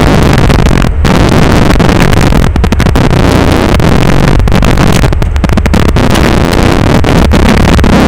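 Mitsubishi Lancer Evolution VI's turbocharged four-cylinder engine and cabin noise heard from inside the car as it creeps along at low speed. The recording is overloaded and harshly distorted, with a few brief dropouts.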